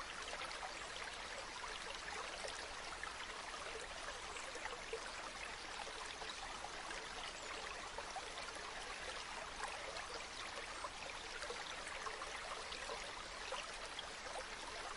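River water flowing steadily, a continuous rushing with fine babbling and splashing throughout.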